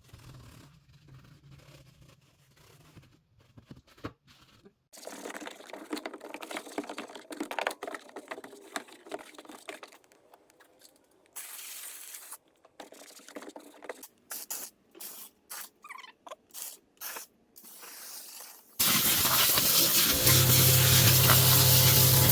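Car detailing work sounds: a stretch of rough scrubbing-like noise, then a series of short spray squirts, then a long, loud continuous spray over a steady motor hum near the end.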